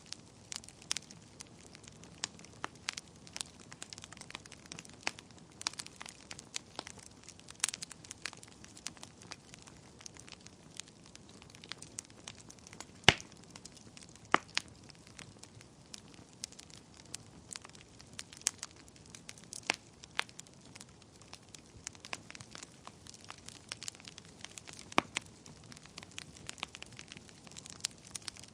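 Wood fire burning in a fireplace, crackling and popping at irregular intervals over a low hiss, with a loud pop about halfway through.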